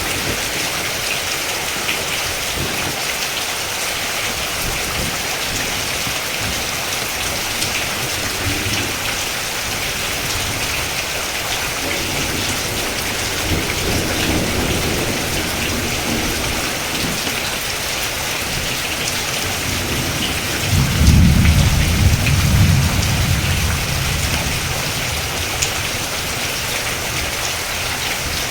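Steady rain falling, with a low rolling rumble of thunder about three-quarters of the way through and a fainter rumble around the middle.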